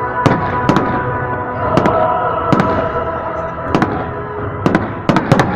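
Aerial fireworks bursting in a salute display: about nine sharp bangs, with three in quick succession near the end, over a continuous background with sustained tones.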